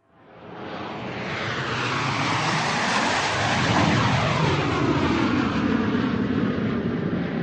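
Airplane flying overhead: a rushing engine noise that fades in over about two seconds and is loudest about four seconds in, its tone sweeping in pitch as it passes.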